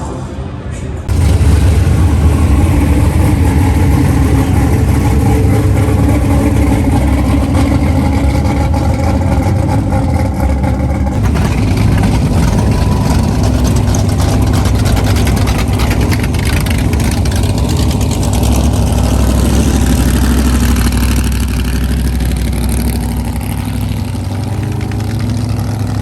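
Loud car engine running steadily near the microphone, starting abruptly about a second in, with a change in its sound about eleven seconds in.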